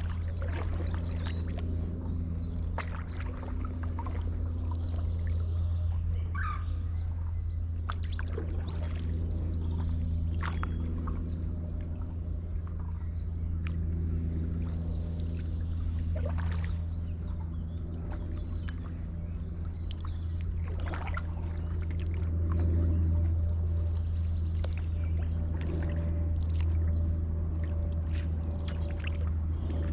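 Stand-up paddleboard paddle dipping and pulling through canal water, with splashes and drips every second or two, over a steady low rumble and hum.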